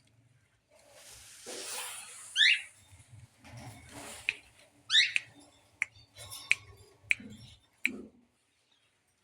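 Parrot acting aggressive: a breathy hiss, then two loud, harsh squawks about two and a half seconds apart, followed by a series of sharp clicks.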